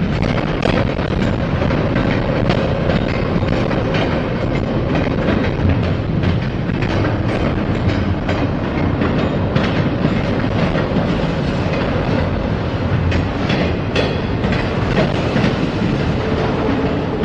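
Freight train rolling past steadily, its car wheels clicking over rail joints.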